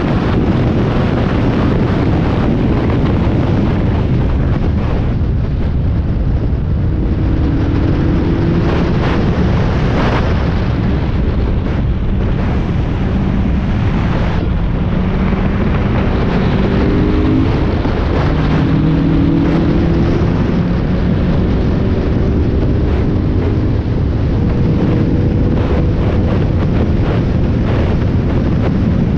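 Onboard sound of a Spec Miata's four-cylinder engine at racing speed, under heavy wind and road rumble buffeting the microphone. The engine note rises and falls several times in the middle stretch as the car accelerates, shifts and brakes.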